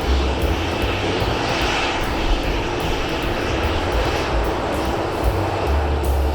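Boeing 737-800's CFM56-7B jet engines running with a steady roar and a faint high whine. Wind buffets the microphone with an uneven low rumble.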